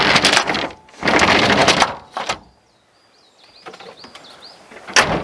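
Camp gear being handled: two rasping scrapes of about a second each and a shorter one, then small birds chirping and a single sharp thump near the end.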